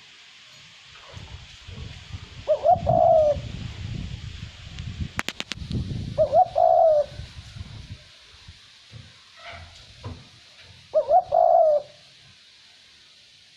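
A male Cu Moi dove cooing three times, each call short and pitched, a few seconds apart. Light wind rumbles under the first two calls, and a quick rattle of clicks comes about five seconds in.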